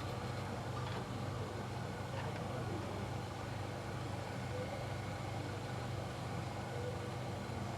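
A steady low mechanical hum at an even level, with no starts, stops or changes in pitch.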